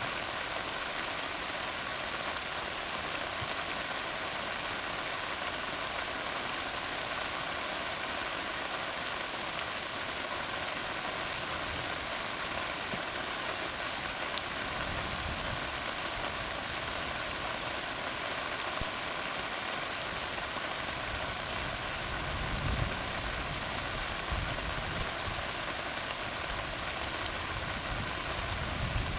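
Steady rain falling on a tar road, an even hiss with scattered louder drop taps. A brief low rumble comes in about three-quarters of the way through.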